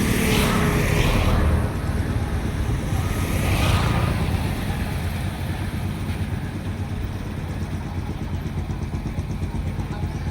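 A motor vehicle running with a heavy low rumble. It swells louder twice in the first four seconds, then runs steadier and a little quieter.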